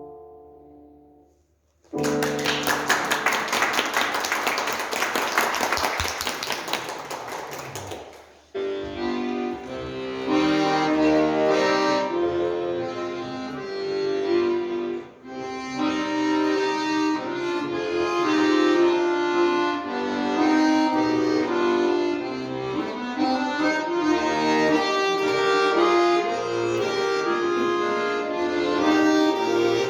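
Audience applause for about six seconds, then an accordion begins playing a tune.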